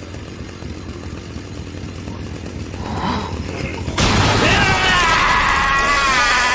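Low rumbling that grows louder, then about four seconds in a sudden loud chainsaw-like revving sound effect with a wavering pitch.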